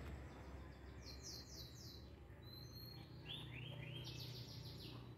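A bird singing faintly: a quick trill of high repeated notes about a second in, and a longer trill stepping through several note groups from about three seconds in.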